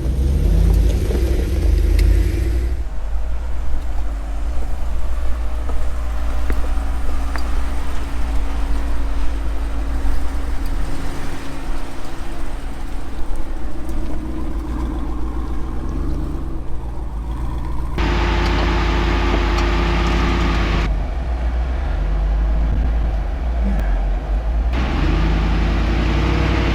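A 4x4 off-road vehicle driving on a trail with its engine running steadily and strongly low-pitched. The sound changes abruptly about 3, 18, 21 and 25 seconds in, as separate driving clips cut one to the next.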